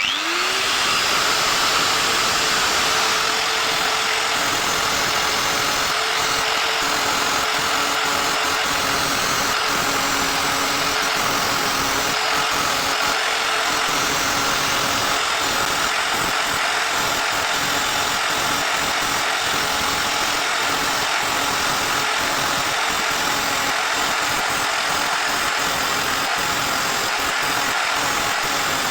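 An electric power tool motor switches on, spins up with a quick rise in pitch, then runs steadily at full speed.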